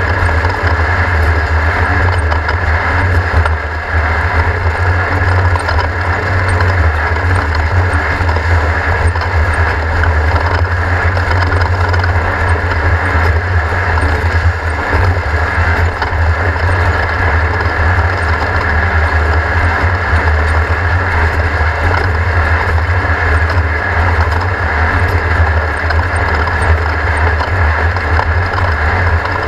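Race car engine running loudly and steadily under load, a deep low drone with noise spread across the higher range and no clear rises or drops in pitch.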